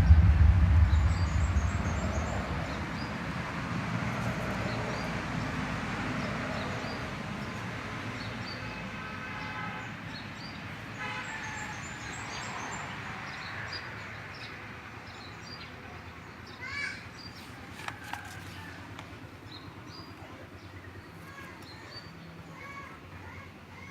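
A low vehicle-like rumble fading away over the first few seconds, then faint scattered short, high bird chirps over a quiet background, with a couple of faint clicks near the middle.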